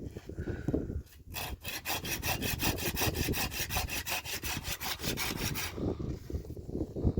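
Hand saw cutting wood in quick, even strokes, about seven a second, starting about a second in and stopping near six seconds, with low knocking and rustling underneath.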